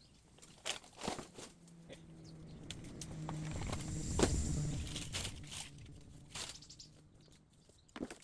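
Footsteps and crackling on dry bamboo litter and broken canes, with scattered snaps and rustles. A low rumbling sound rises and falls in the middle.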